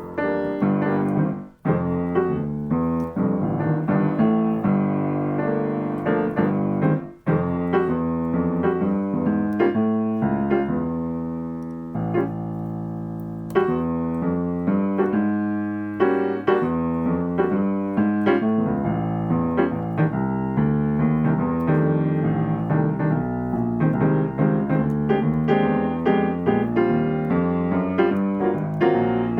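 Piano playing jazz accompaniment (comping) rhythm patterns: repeated chords in a steady rhythm. It breaks off briefly twice in the first seven seconds, and about halfway through a chord is left to ring for a few seconds.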